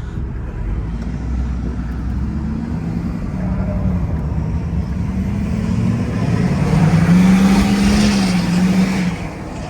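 Diesel pickup truck engine accelerating hard under heavy throttle, with a wavering engine note and a rising rush of hiss, building to its loudest about seven to eight seconds in. It cuts off sharply near the end as the throttle is released.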